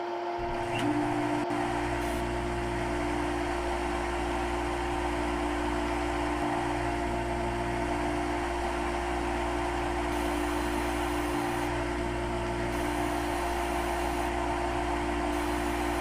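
CNC machine running with a steady hum and a constant whine.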